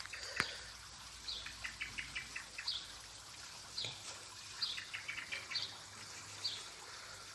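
Birdsong: a short high call repeated about once a second, alternating with quick runs of clipped chirps. A sharp click just after the start and a softer one around four seconds in.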